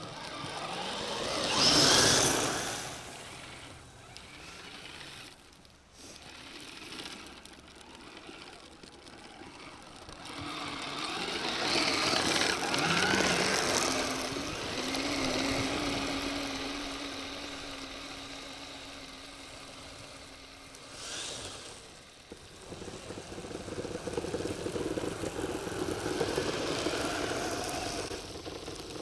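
Radio-controlled Kyosho Blizzard snow vehicle's small electric motor running, with a motor tone that holds steady for several seconds midway and swells in level.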